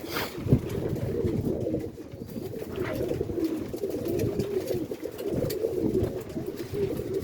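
Several domestic roller pigeons cooing, overlapping coos that go on steadily.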